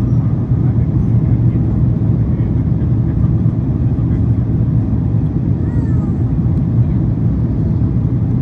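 Steady low rumble of a Boeing 767-400ER heard from inside the passenger cabin during the approach: engine and airflow noise with no breaks.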